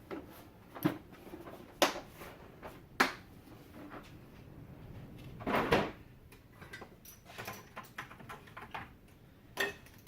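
Scattered clicks and knocks of tools and parts being handled, with a longer scraping rustle about halfway through.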